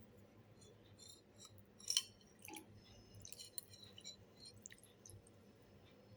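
Soft, scattered clinks and taps of spoon and chopsticks against a bowl of beef noodle soup, with one louder clink about two seconds in.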